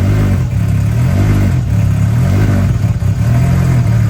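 Car engine running, its note rising and falling a few times as if lightly revved.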